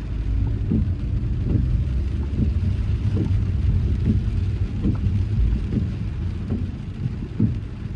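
Car driving in rain: a steady low rumble of road and engine noise under a hiss of rain, with soft thumps at a regular beat a little faster than once a second.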